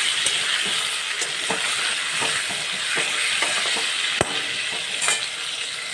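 Potato pieces frying in hot oil, a steady sizzle, with a spatula knocking and scraping against the pan as they are stirred. One sharper knock comes about four seconds in.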